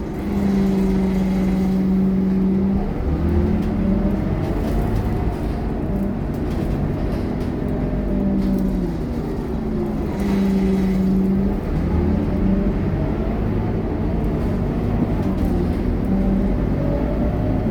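Scania K230UB bus's five-cylinder diesel engine running under way. Its pitch rises and steps as it pulls through the gears, twice, with steadier running in between.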